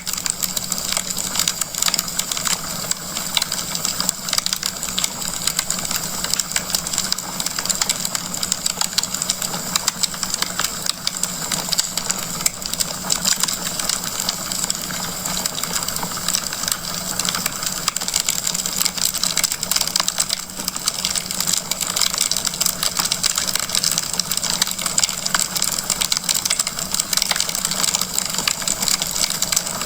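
Wood fire burning in a fireplace, crackling steadily with many small pops and snaps a second over a constant hiss.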